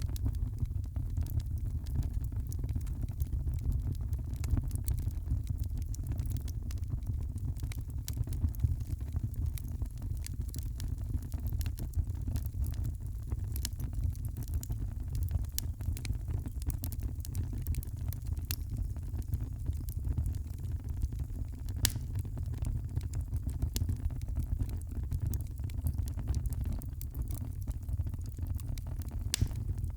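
Wood fire burning in a fireplace: a steady low rumble of the flames with many scattered sharp crackles and pops.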